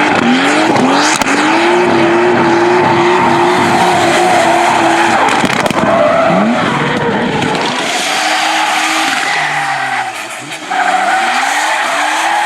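Drift car's engine revving hard, climbing through quick gear changes and then held at high revs while its tyres squeal steadily in a slide. About ten seconds in, the engine briefly drops off throttle, then revs back up with the tyres squealing again.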